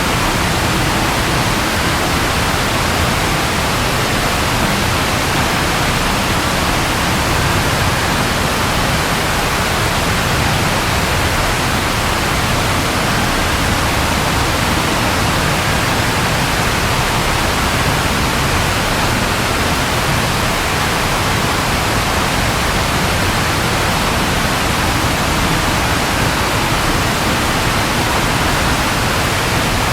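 Steady rain falling, an even, unbroken wash of sound with no thunder.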